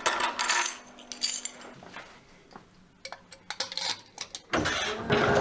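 Scattered light clinks and clatter of small hard objects being handled, loudest in the first second and a half and again about three seconds in; a louder, steadier sound takes over near the end.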